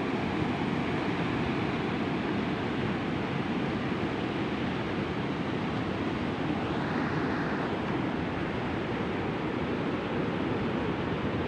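Rough sea surf washing steadily against a rocky shore, with a slight swell about seven seconds in.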